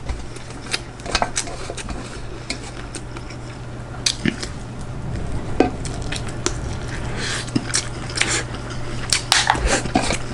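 Cutlery clinking and scraping on a plate during a meal, with scattered sharp clicks over a steady low hum.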